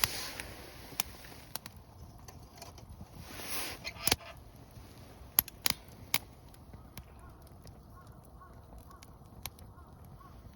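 Wood campfire crackling: irregular sharp pops and snaps over a faint hiss, with a couple of brief rustling swells.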